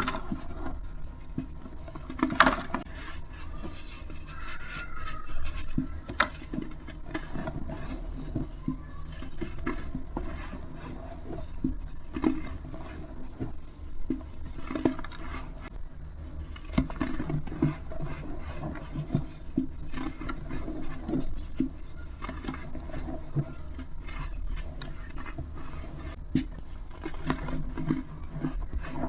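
Dry, brittle material being crumbled and rubbed, a dense run of small crackles and scrapes with a sharper crack about two seconds in.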